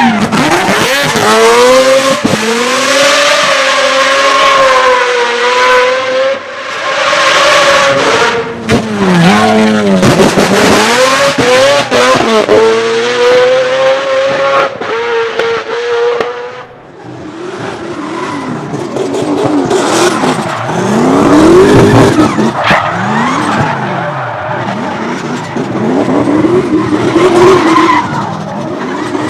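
A drift car's engine revving hard and held high while the tyres skid and squeal through a slide, with the revs dipping and climbing again partway through. About 17 s in the engine drops away briefly, then the revs rise and fall repeatedly as the drifting continues.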